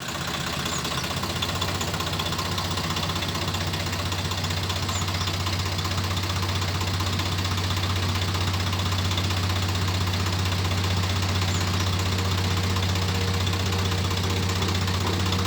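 Tractor diesel engine running steadily with an even low throb, its pitch unchanging throughout.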